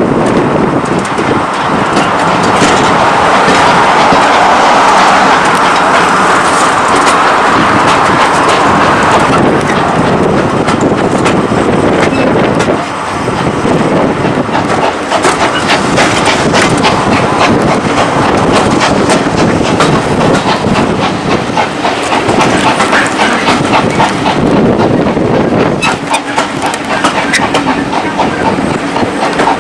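Railway carriage running along the track: a steady rushing noise with many sharp clicks of the wheels over the rail, the rushing louder for the first nine seconds or so.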